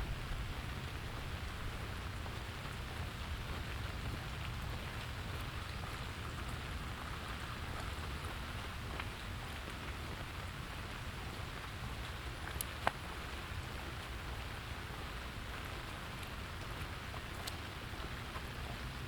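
Steady autumn rain falling and pattering on surfaces, over a low steady rumble, with a few sharp drip ticks; the clearest tick comes about 13 seconds in.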